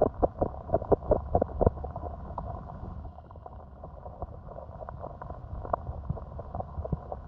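Muffled flowing water of a small stream with irregular knocks and clicks, coming thick for about the first two seconds and then sparser.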